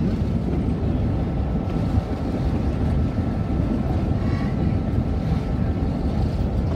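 Steady rumble of a moving train heard from an open-sided passenger car, with no breaks or distinct events.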